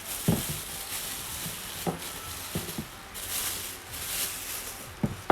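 Cordless power tools being handled and set down: several separate knocks and clicks, with a brief rustle of handling noise a little past the middle.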